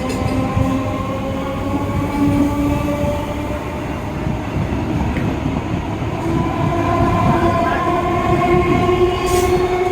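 Indian Railways electric multiple unit (EMU) local train running with a dense rumble of wheels on track. Its traction motors whine in several tones that climb gently in pitch and grow louder in the second half as the train picks up speed.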